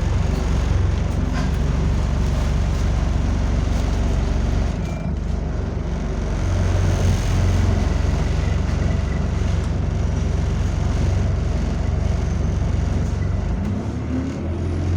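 A single-deck bus's diesel engine running, heard from inside the saloon as a steady low drone.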